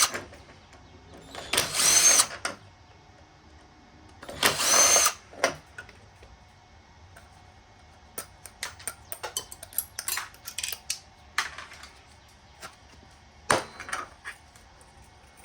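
Power drill whirring in short bursts, twice in the first five seconds and once near the end, spinning screws out of furnace burner parts. Between the bursts, light clicks and clinks of small metal parts being handled.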